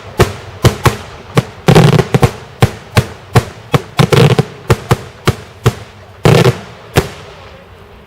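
Daytime fireworks going off: a rapid series of loud, sharp bangs, about two a second, with a few quick rattling rolls of reports. The bangs stop about seven seconds in.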